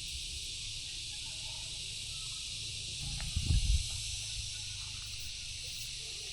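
Steady high-pitched chorus of insects such as cicadas or crickets, with a couple of dull low thumps about three and a half seconds in.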